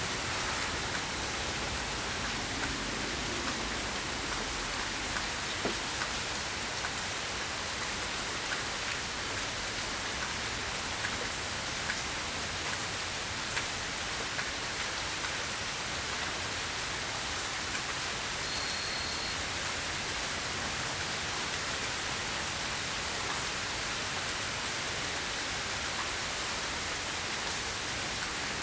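Rain falling steadily, an even hiss with scattered small ticks of drops. A brief high beep sounds about two-thirds of the way through.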